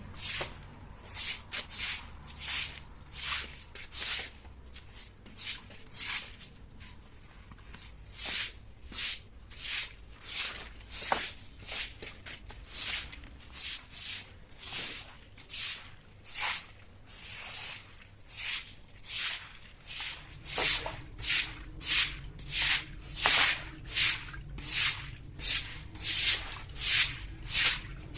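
Rhythmic back-and-forth scrubbing strokes of a brush or sponge on a hard surface, about one to two a second. The strokes grow louder and quicker about two-thirds of the way in, with a low steady hum joining them.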